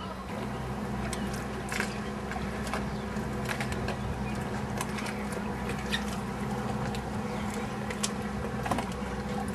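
Boat engine running steadily, with scattered clicks and knocks over it.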